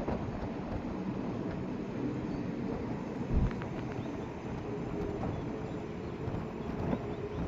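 Wind buffeting the microphone over a steady low rumble, with one low thump from a gust about three and a half seconds in.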